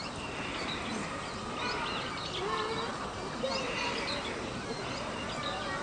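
Small birds chirping repeatedly, with faint people's voices in the background.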